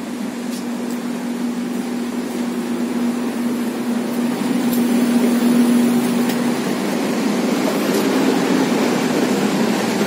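Steady mechanical running noise of a passenger train, with a steady low hum that stops about six and a half seconds in while the noise grows slightly louder.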